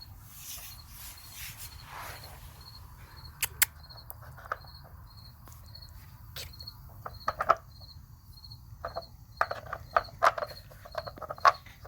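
A cricket chirping steadily, about two chirps a second. Over it, scattered sharp clicks and short bursts of clatter, loudest in the second half: the puppy nosing and flipping the plastic covers of a dog treat puzzle.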